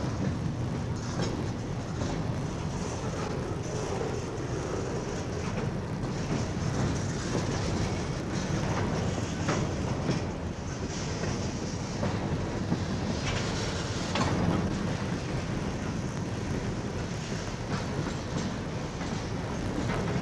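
Freight train cars rolling past at a steady rumble, the steel wheels giving occasional sharp clicks over rail joints.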